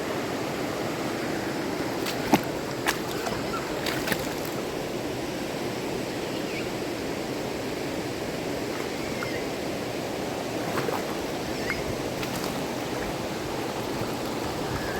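Rushing river water, a steady roar, with a few sharp clicks about two to four seconds in.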